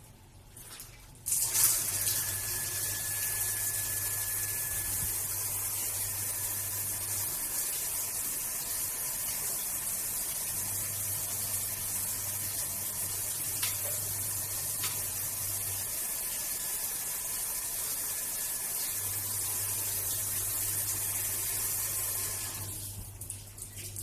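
Water running through an Alpha instant water heater, starting suddenly about a second in as a steady hiss and tailing off near the end. A low hum comes and goes underneath.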